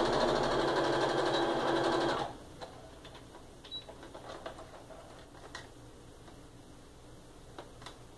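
Electric sewing machine running steadily at speed, stitching a seam, then stopping a little over two seconds in. A few faint clicks follow.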